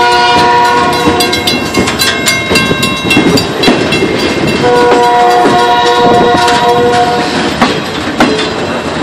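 Train running under way, heard from aboard a car: loud rattling and clanking of wheels and metal cars. A train horn sounds a steady chord at the start and again for about three seconds midway.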